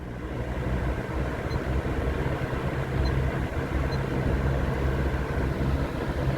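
Vintage Lakewood box fan running on medium speed: a steady motor hum under the rush of air from the blades, getting louder over the first second or so as it speeds up from low.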